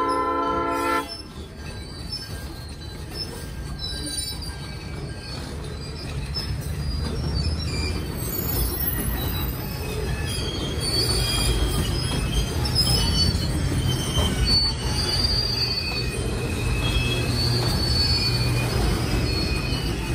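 Freight train locomotive horn sounding a chord that cuts off about a second in, then the train rolling by with a low rumble that slowly grows louder and wheel flanges squealing on and off.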